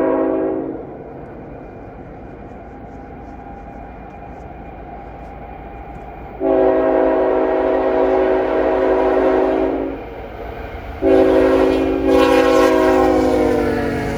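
CSX freight locomotive's multi-chime air horn blowing. It sounds the end of one blast at the start, then a long blast of about three and a half seconds, then another that drops in pitch near the end as the locomotive passes. A low rumble of the train runs underneath.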